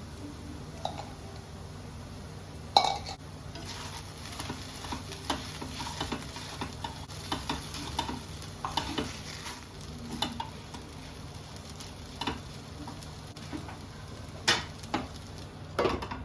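A spatula stirring and scraping in a pan, with irregular knocks against the metal, while food fries with a steady sizzle. The sharpest scrape comes about three seconds in.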